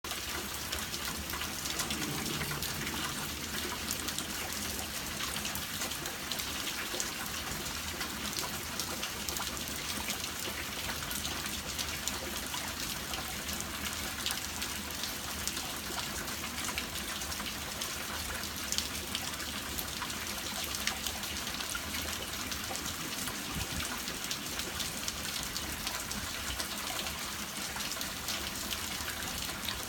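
Steady rainfall, a continuous hiss of drops with many small pattering ticks of drops hitting surfaces.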